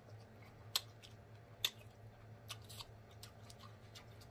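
Faint close-miked chewing of a mouthful of sushi: about half a dozen soft wet mouth clicks and lip smacks, over a low steady hum.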